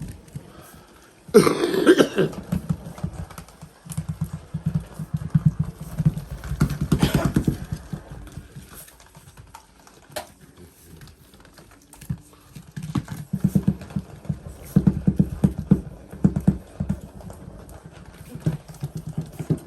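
Motorised toy ball rolling across a hard floor, a fast steady rattling tick that comes and goes in runs, with two louder bursts, one about a second and a half in and another about seven seconds in.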